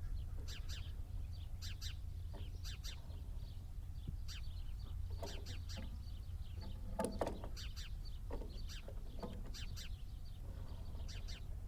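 Small birds chirping over and over in short high calls, over a steady low rumble. A brief, louder sharp sound comes about seven seconds in.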